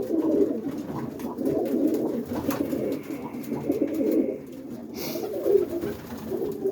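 Many roller pigeons cooing together in their loft, a continuous overlapping murmur of low coos.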